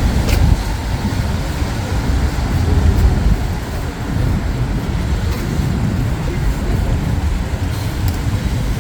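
Steady road traffic rumble, with vehicles passing continuously.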